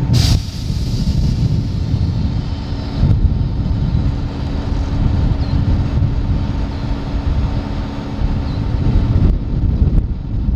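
Low, steady rumble of a train in a rail yard with a constant hum running under it, and a brief sharp crackle right at the start.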